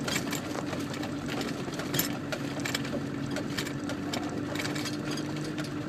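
Land Rover engine running steadily at low speed, heard from inside the cab, with frequent clicks and rattles as it drives along a rough track.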